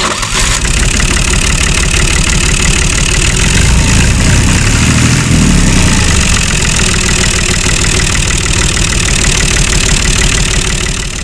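An engine running steadily with a fast, even chugging pulse, its low rumble swelling slightly midway.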